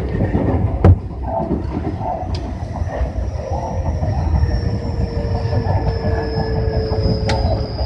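Tobu 60000 series electric train running, with a steady rumble and a high thin whine that slowly falls in pitch. Two sharp clacks from the wheels, about a second in and near the end.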